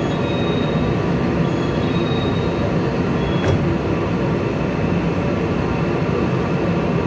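Taiwan Railways EMU500-series electric commuter train standing at the platform with a steady hum. A high beeping door-warning tone sounds on and off for the first couple of seconds, and a single sharp knock comes about three and a half seconds in as the doors shut.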